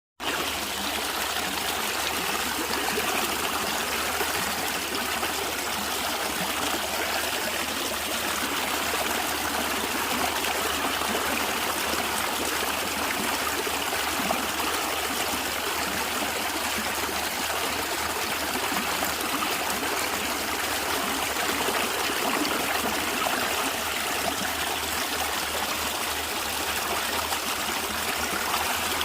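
A natural stream of water flowing and gurgling steadily.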